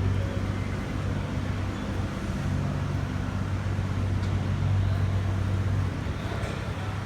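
An engine running steadily with a low hum under a wash of background noise, the hum easing off slightly about six seconds in.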